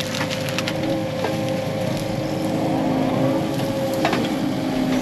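Heavy equipment diesel engine running steadily under work, with a few sharp knocks and cracks of brush and rock over it, one about a second in and another near four seconds.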